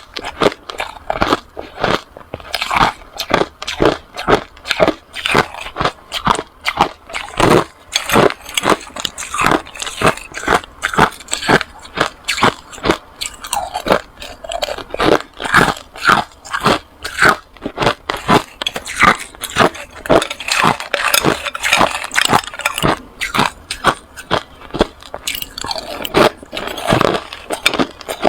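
Close-miked hard ice being bitten and chewed: a dense run of loud, sharp crunches, several a second, as the ice cracks between the teeth.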